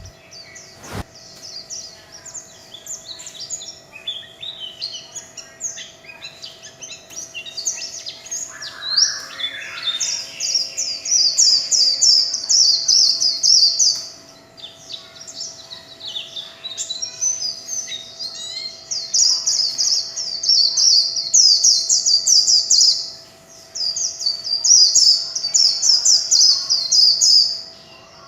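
White-eye (vành khuyên) singing fast, high-pitched twittering warbles in the 'líu chòe' style, in long phrases of several seconds broken by short pauses.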